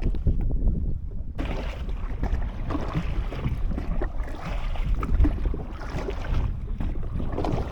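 Wind rumbling on the microphone over water splashing and lapping as a small boat is paddled by hand. It has no engine running. The splashing comes in about a second and a half in.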